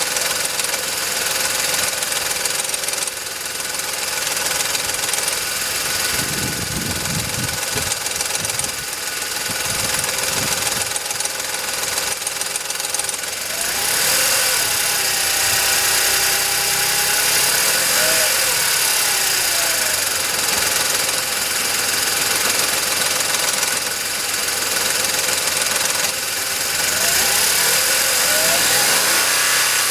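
VW Polo 9N 1.2 12V three-cylinder engine idling with a metallic knocking. The owner guesses it might be the timing chain but is not sure.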